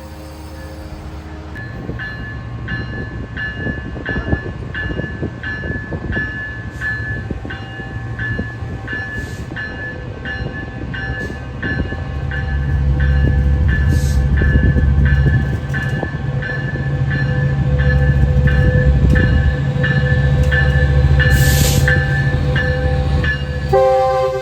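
Grade-crossing bell ringing steadily, about two strikes a second, while a train rumbles past, growing louder from about halfway. There is a short hiss near the end.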